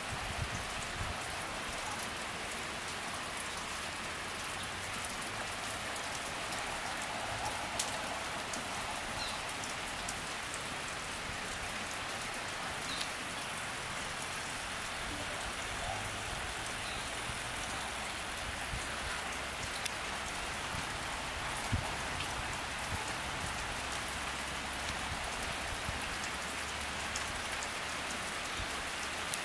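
Steady rain falling, a continuous even hiss, with a few sharp ticks of single drops scattered through it.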